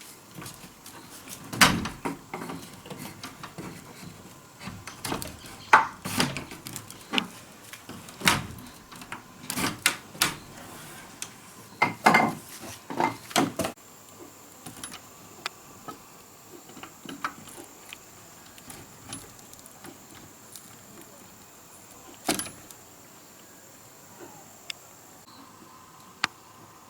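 Irregular sharp knocks and clatters of hand work with wood and tools, coming thick for the first dozen seconds or so and then only now and then.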